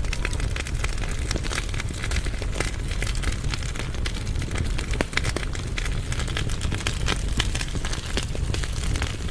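Wood fire burning in a fireplace firebox: logs crackling and popping with many sharp, irregular snaps over a steady low rumble.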